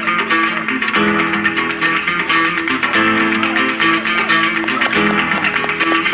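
Acoustic guitar strummed in quick, even strokes, the chord changing about every two seconds.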